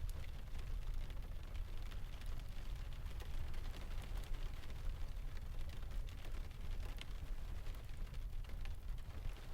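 Layered rain, ocean and fireplace ambience: a steady deep rumble under a soft hiss, with scattered small crackles and ticks throughout.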